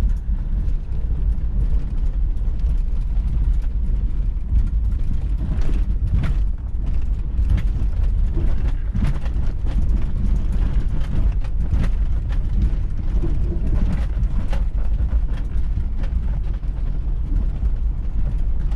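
Toyota 4Runner driving slowly over a rough, overgrown farm track, heard from inside the cabin: a steady low rumble of engine and tyres, broken by frequent knocks, rattles and creaks as the body jolts over bumps.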